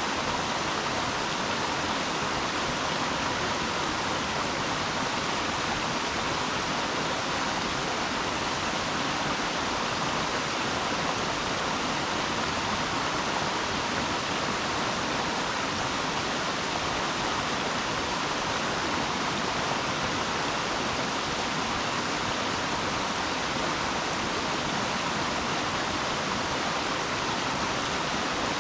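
Steady rush of running water, unbroken and even.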